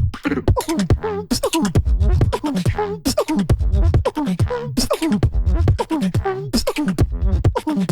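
Beatbox duo performing: a vocal trombone-like low brass sound slides down in pitch again and again over sharp percussive clicks and snares in a steady beat.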